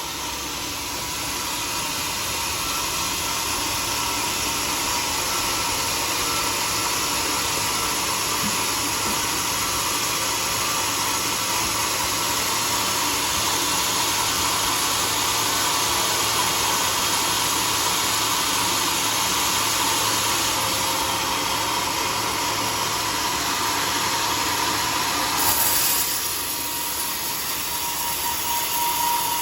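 Sawmill saw running through a teak log: a loud, steady, hissing cutting noise with a faint steady whine. The noise swells briefly near the end, then eases off a little.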